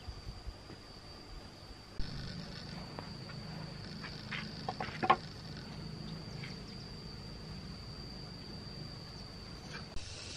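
Insects buzzing with a steady, high, continuous tone, with a few light clicks and knocks about four to five seconds in.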